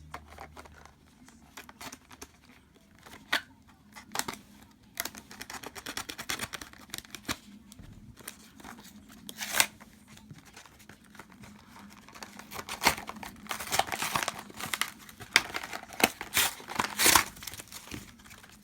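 Packaging of a Pokémon card set being torn open and crinkled by hand, with irregular sharp crackles and rips that grow busier and louder in the last few seconds.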